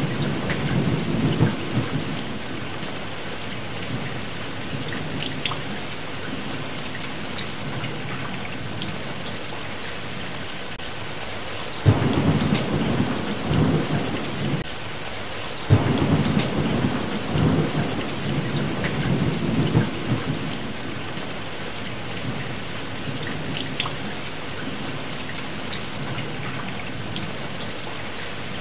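Steady heavy rain with thunder. Rumbling fades over the first two seconds, and two sudden thunderclaps about halfway through each roll on for a couple of seconds.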